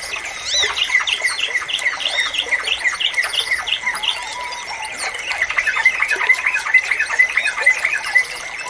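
Yellow-vented bulbuls (trucukan) calling: a quick run of short, bubbly chirps, several a second, growing busier about halfway through, over a steady thin high tone.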